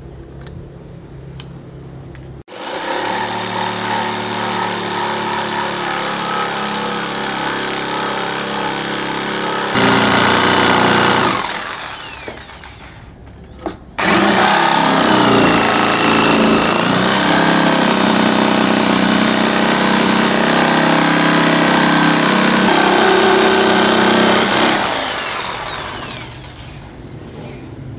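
Electric power tool working wood, its motor running steadily with a brief louder stretch, then winding down. It starts again sharply about halfway through, runs on, and winds down near the end.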